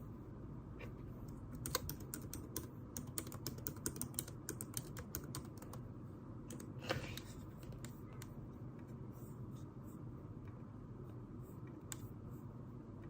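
Typing on a computer keyboard: a quick run of key clicks in the first half, then scattered single clicks, over a steady low room hum. A short brushing sound comes about seven seconds in.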